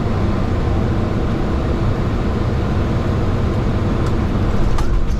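Steady low rumble and rush of noise inside a Boeing 737-800 cockpit during the landing, with a few faint ticks near the end.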